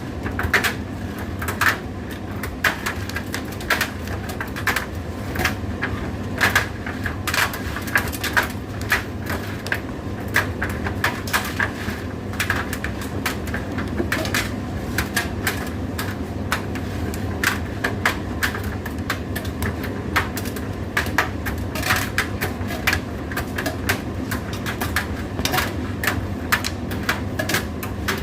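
Indesit IDC8T3 condenser tumble dryer running: a steady low hum with irregular clicks and knocks, a few a second.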